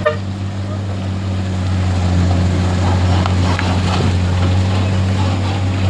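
A vehicle engine running steadily, giving a low, even drone.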